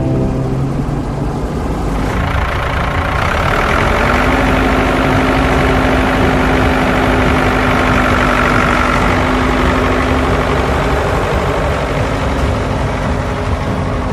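Heavy vehicle engine running steadily and loudly, with a steady low hum that sets in a few seconds in and fades out near the end.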